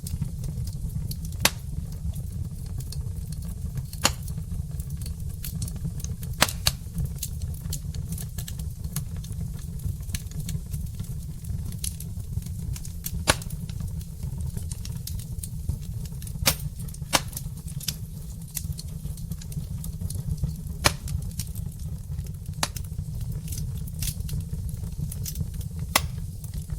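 Wood fire burning in a fireplace: sharp crackles and pops scattered irregularly, a second or more apart, over a steady low rumble.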